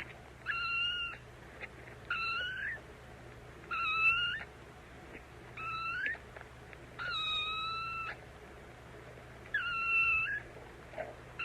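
A kitten mewing repeatedly: high-pitched, drawn-out mews about every one and a half seconds, each rising in pitch at the end.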